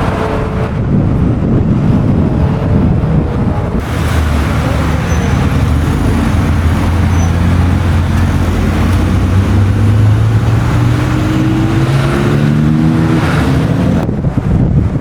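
Classic car engine running loud, its pitch rising steadily through the second half as the car accelerates.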